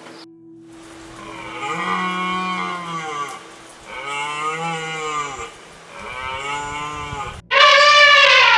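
Cow mooing three times, each moo a drawn-out call that rises and falls in pitch. Near the end a much louder call of a different, brighter character begins.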